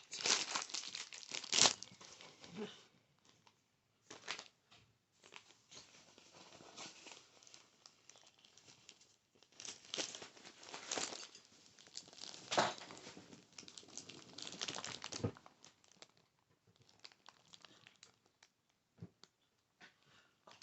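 Crinkling and rustling of objects being handled close to the microphone, in irregular bursts with quieter scratching between.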